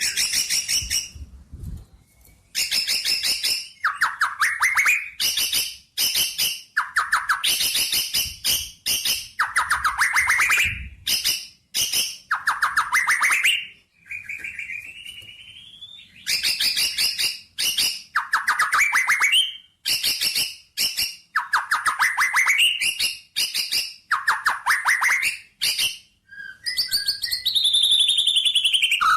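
A songbird singing a fast chattering song in phrases of about a second, repeated again and again with short pauses. A single rising note comes about halfway through, and a run of sweeping notes comes near the end.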